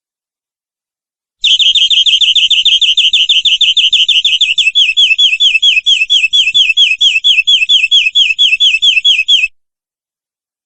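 Domestic canary singing one long rolling trill of quickly repeated falling notes, about six a second. It starts suddenly about a second and a half in and stops about a second before the end.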